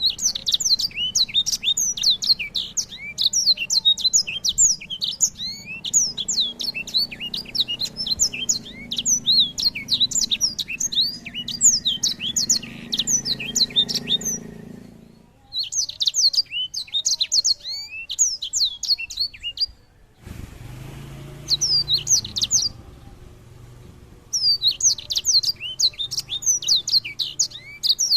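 A songbird singing a fast, continuous song of rapid high sweeping notes, in long runs broken by a few short pauses.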